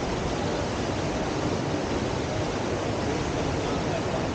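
Steady rush of fast river water pouring over the Bend river surf wave, an even roar without breaks.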